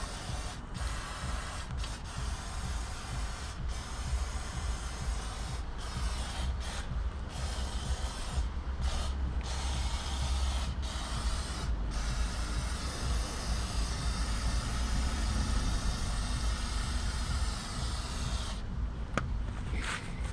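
Cleaning fluid sprayed over a dirty engine bay: a hissing spray in long stretches with short breaks, over a low steady rumble.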